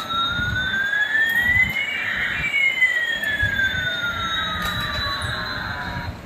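Battery-operated toy fighter jet's electronic jet sound effect: two whistling tones, one rising and one falling, crossing about two seconds in, over a light hiss.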